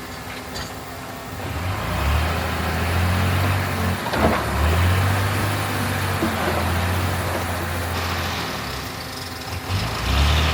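Heavy diesel engine of earthmoving equipment running hard. It grows louder about a second and a half in, with a brief clatter about four seconds in, and eases off near the end.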